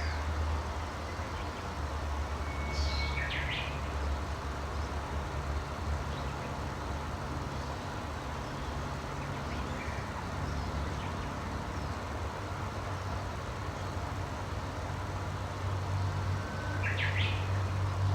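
Two short bird calls, about three seconds in and again near the end, each a brief held note followed by a quick run of higher notes, over a steady low rumble and hiss.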